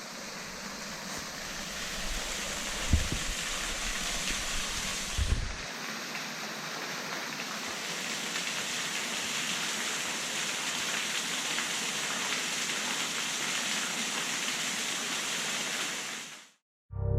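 Waterfall splashing steadily, with a couple of low wind bumps on the microphone; the sound cuts off suddenly near the end.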